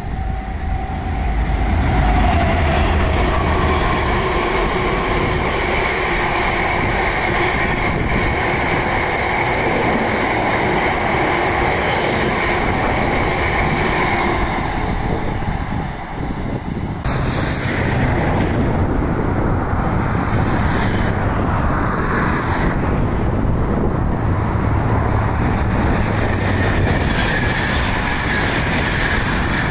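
A diesel-hauled train of open box wagons running past, its engine and steel wheels on the rail making a loud, steady noise with a high whine over it. About halfway through, the sound cuts to another train passing, a diesel multiple unit.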